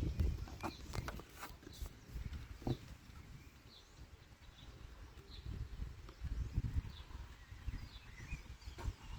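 Gusty wind buffeting the microphone in uneven low rumbles, with a few sharp clicks and short high chirps about once a second.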